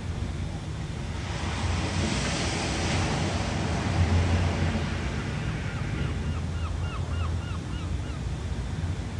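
Ocean surf over a steady low rumble, with a wave washing in and swelling about a second in, then easing off. Near the end a bird gives a quick run of short, rising chirps, about five a second.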